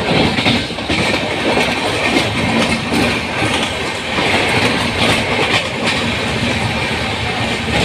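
Express passenger train running at speed, heard from on board: a steady loud rumble of the coach with the wheels clacking irregularly over the rail joints.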